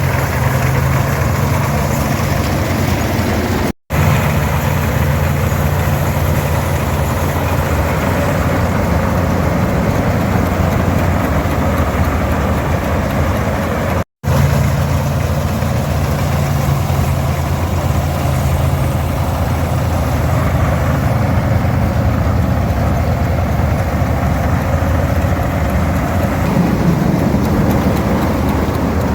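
Farmall 460 diesel tractor, fitted with a 282 engine, running steadily under load while towing an International 82 pull-type combine, with the combine's threshing machinery running at the same time. The sound cuts out completely twice, briefly.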